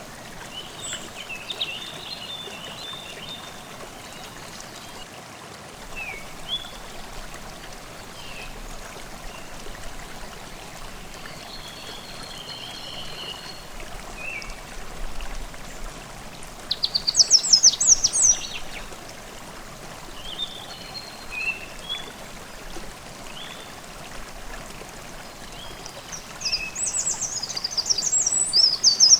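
Forest stream babbling steadily, with songbirds calling and singing over it. A loud, rapid trilling song comes a little past halfway and again near the end.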